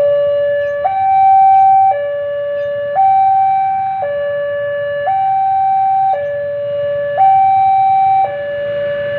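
Railway level-crossing warning alarm sounding: an electronic two-tone signal switching between a lower and a higher note about once a second, the warning that a train is approaching and the gate is closing.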